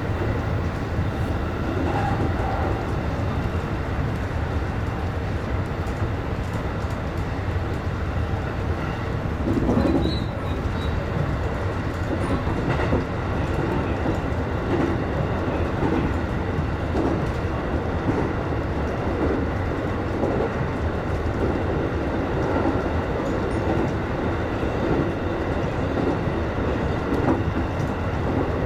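JR West 223 series electric train running at speed, heard from inside the cab: a steady rumble of wheels on rail with a soft rhythmic clickety-clack. There is a brief louder swell about ten seconds in.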